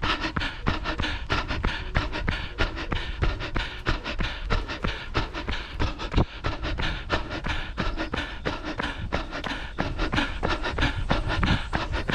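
A runner's footfalls at a steady pace of about three a second, with hard panting breaths.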